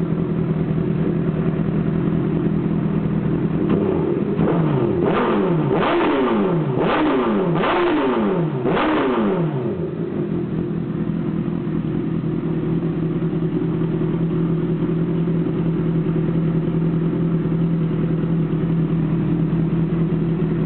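Honda CBR1000RR SC59 Fireblade's inline-four engine idling through a Jardine GP1 straight-through exhaust, blipped five times in quick succession about four seconds in, the revs shooting up and dropping back each time, then settling back to a steady idle.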